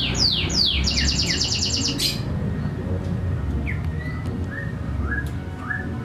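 Songbirds calling: a fast run of high chirps, each sweeping downward in pitch, stops abruptly about two seconds in, and a few soft short notes follow later. A low steady rumble runs underneath.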